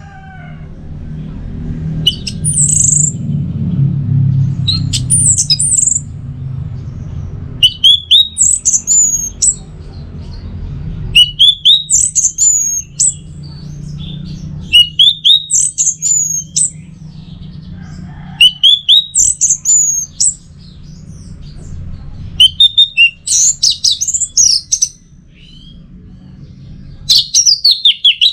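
Orange-headed thrush singing: short phrases of quick, high rising-and-falling whistled notes, repeated every two to three seconds with brief pauses between them. A steady low rumble runs underneath.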